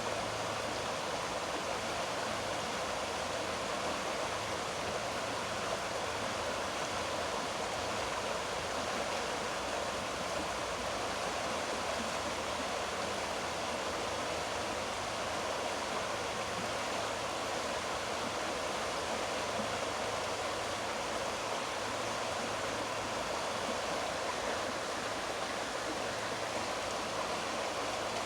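Water of a stream rushing steadily, an even unbroken hiss of flowing water.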